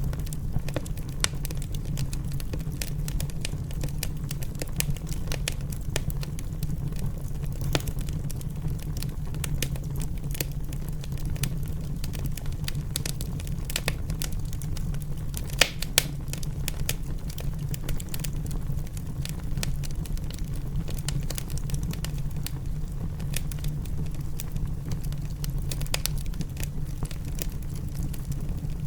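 Wood fire crackling in a fireplace, with many sharp pops and snaps over a steady low rumble; a couple of louder pops come about halfway through.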